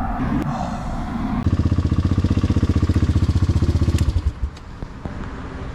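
Motorcycle engine running close by, with a fast, even pulsing beat at a steady pitch for about two and a half seconds before cutting off abruptly.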